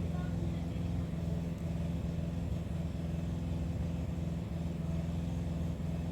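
Steady low mechanical hum at a fixed pitch, as from a motor running.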